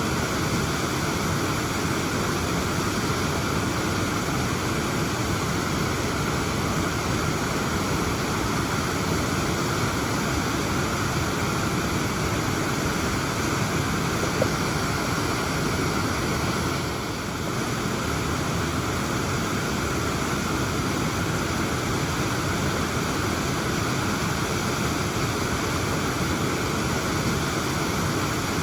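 Waterfall rushing: a dense, steady sound of falling water that dips slightly for a moment about two-thirds of the way through.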